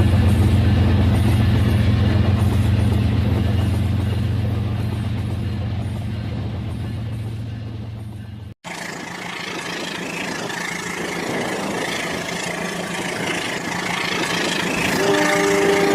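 Battery toy train's engine sound effect: a steady low engine hum, cut off suddenly past the halfway mark. A thinner, noisier running sound follows, and steady pitched tones like a horn or melody come in near the end.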